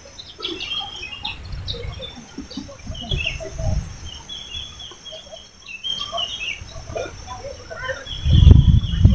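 Small birds chirping and calling in pine forest, short repeated chirps throughout, over a steady high-pitched tone. About eight seconds in, a loud low rumble takes over.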